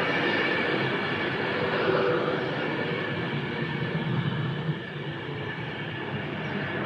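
Avanti West Coast Class 390 Pendolino electric train running past, a steady rolling noise of its carriages' wheels on the rails.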